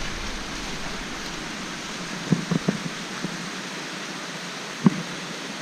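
Steady rush of flowing creek water, with a few soft thumps about two and a half seconds in and once more near the end.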